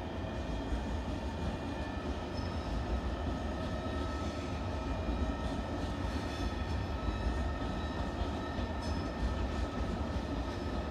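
A train at a station: a steady low rumble with several faint, steady high-pitched whines over it.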